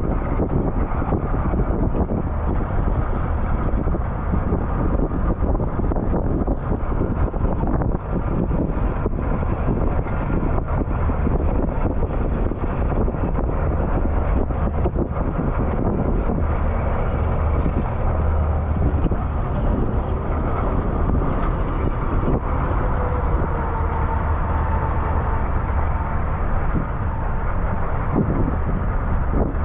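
Steady vehicle rumble, strongest in the low end, with scattered light clicks.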